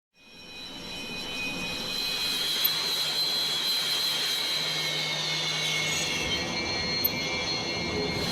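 Jet engine running with a high turbine whine made of several tones that sag slightly in pitch over a steady rush of noise, fading in over the first second or two.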